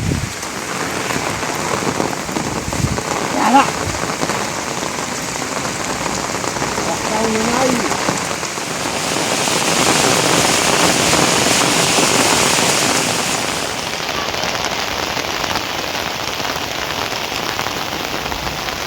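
Steady rain falling and pattering on surfaces, growing heavier for a few seconds past the middle before easing back.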